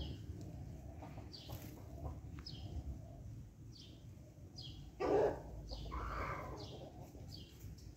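Background bird chirping: short, high, falling chirps repeated about once every half second to a second. A louder short call breaks in about five seconds in.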